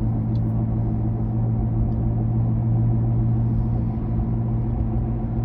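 Badly worn left-front wheel bearing on a 2007 Toyota Camry growling while driving, heard inside the closed cabin: a steady low drone whose pitch follows road speed.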